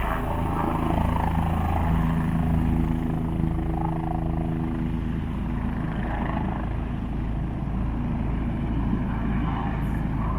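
Police helicopter running on the ground, its engine and rotor a steady low drone, with a steady hum of several tones rising above it for a few seconds in the middle.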